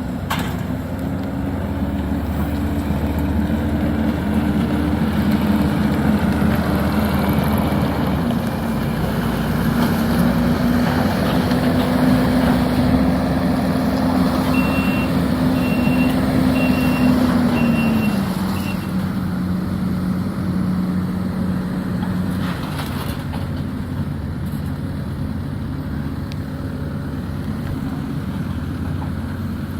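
Excavator's diesel engine running under changing load, its pitch stepping down twice, with a short run of about five high warning beeps near the middle.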